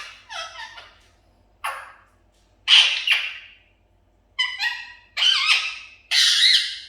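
Pet budgerigar giving a series of short calls, about one a second, some gliding down in pitch; the loudest comes about three seconds in, with another long call near the end.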